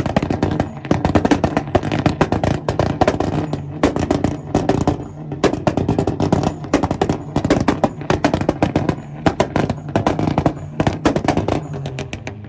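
Volkswagen engine held on a two-step launch-control rev limiter: a rapid, loud string of exhaust pops and bangs over the running engine, cutting off suddenly at the end.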